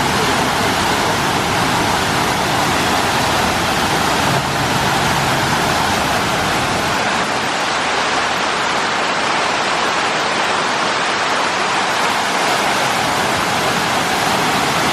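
Steady, loud rush of water from a large park fountain.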